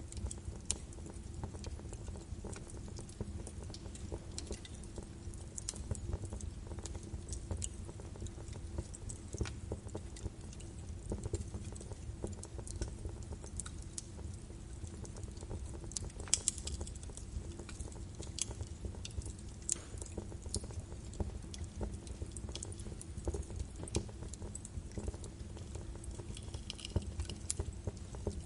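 Birch wood fire burning in a fireplace, crackling with irregular sharp pops and snaps over a low steady rumble of the flames, a few louder pops around the middle.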